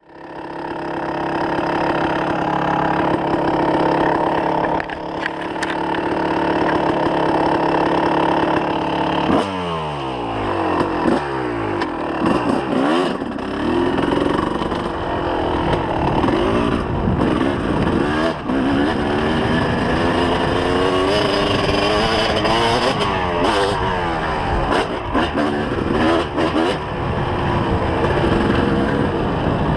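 2004 Kawasaki KX250 two-stroke single-cylinder engine running steadily, then, about nine seconds in, revving hard as the bike is ridden, its pitch rising and falling sharply again and again with the throttle.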